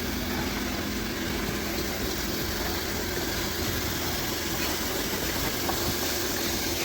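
Locomotive standing with its engine and auxiliaries running: a steady, even mechanical hum with no change in pitch.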